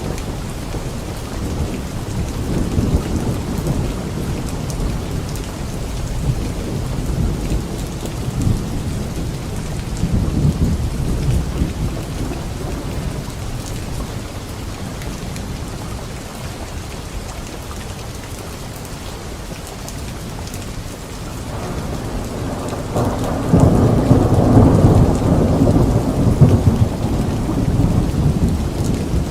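Steady rain with rolling thunder rumbling underneath. A louder, longer roll of thunder builds about two-thirds of the way in and eases off near the end.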